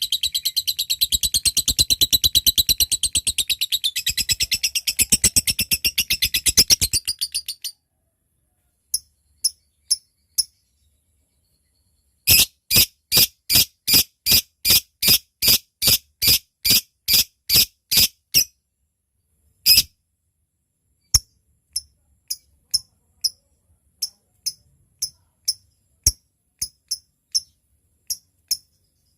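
Lovebird chattering in a long, very rapid high-pitched trill (ngekek panjang) for about seven and a half seconds. After a short pause it switches to sharp, separate ticking chirps (ngetik): a fast run of about three a second, then slower single ticks.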